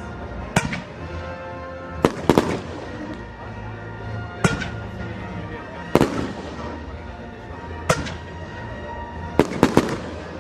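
Aerial fireworks going off: a series of sharp bangs, about eight in ten seconds, two of them in quick pairs, over background music.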